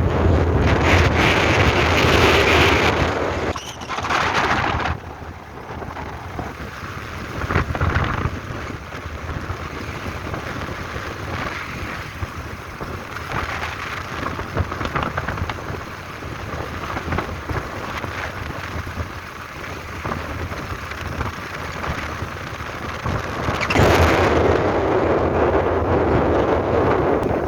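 Strong wind gusting and buffeting the microphone, loudest in the first few seconds and again near the end, easing in between.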